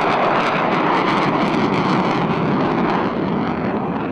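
F-16 fighter jet engine noise as the aircraft passes, a loud steady jet roar that eases slightly near the end.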